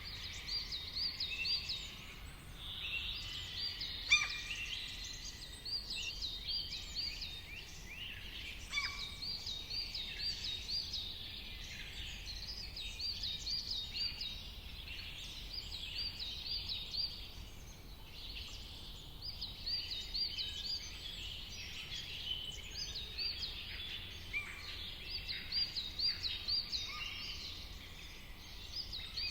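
Several wild birds singing and chirping at once, one of them repeating a quick run of high notes in short phrases every few seconds, with other calls in between, over a faint steady low rumble.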